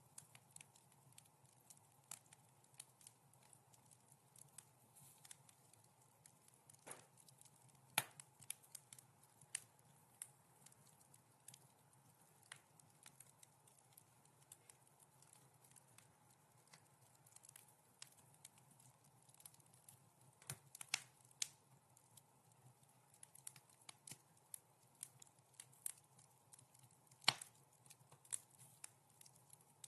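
Wood fire crackling softly: irregular small clicks and snaps throughout, with a few sharper pops about eight seconds in, around twenty-one seconds and near the end.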